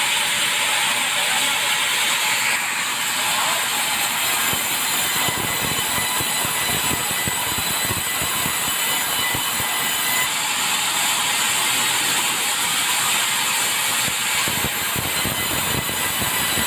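Sawmill saw cutting through a log: a steady, loud, rasping mechanical noise of the blade in the wood, with the tone of the cut shifting slightly a few seconds in and again midway.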